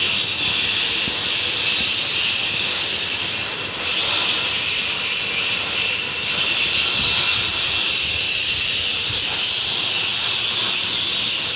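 Steady, loud hiss of machinery, like rushing air, which grows louder about seven seconds in.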